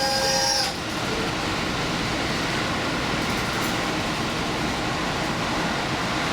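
Diesel limited express train running along the line, heard from on board as a steady rumble of wheels and engine. A high-pitched wheel squeal with several ringing tones stops within the first second.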